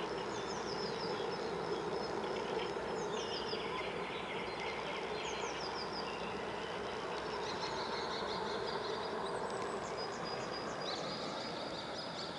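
Several songbirds singing together: groups of quick falling high notes repeat every second or two, with chattering trills beneath, over a steady low hum.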